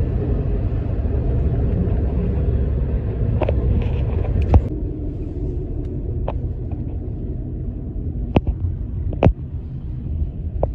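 Steady low rumble of road vehicles in motion, broken by a handful of sharp clicks or knocks, the loudest a little before the middle.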